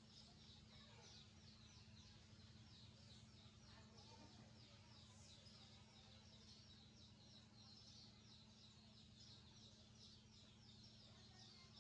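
Faint, unbroken rapid chirping of young birds, about four to five short, high chirps a second, over a steady low hum.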